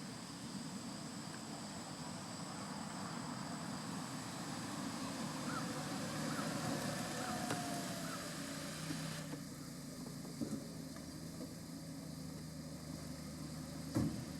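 Low rumble of a vehicle engine, swelling to about seven seconds in and then easing off, with a steady low hum after an abrupt change about nine seconds in.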